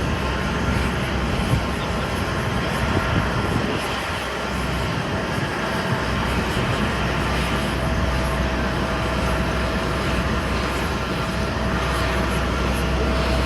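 Jet airliner engines running: a steady rushing noise with a few held whining tones throughout.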